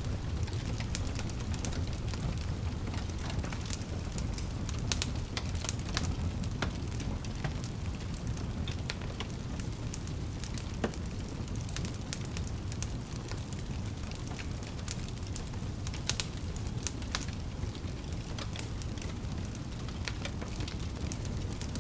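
Wood fire crackling in a fireplace: a steady low rumble of the flames with frequent sharp pops and snaps scattered irregularly throughout.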